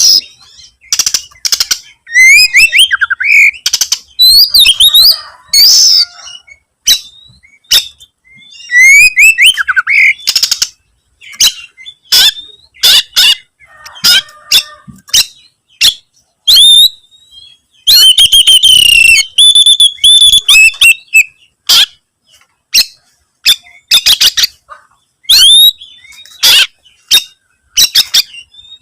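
Oriental magpie-robin in full, vigorous song, the challenging song of a male seeking a rival. It comes in loud bursts of varied whistled phrases with rising and falling notes, mixed with sharp clicking and harsh notes, separated by short pauses.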